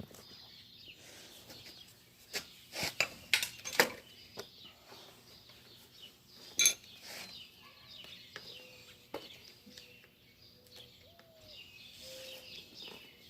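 Several sharp metal clanks, then a single ringing metallic clink about two-thirds of the way through, as steel parts and tools are handled on the bench. Birds chirp faintly throughout.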